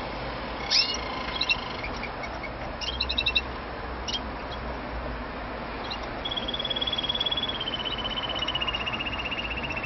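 Canary giving a few short high chirps, then from about six seconds in a long, fast trill of rapidly repeated notes that steps down in pitch partway through and carries on steadily.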